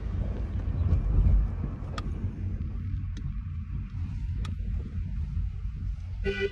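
Car rumbling steadily on the move, heard from inside the cabin, with a few faint clicks.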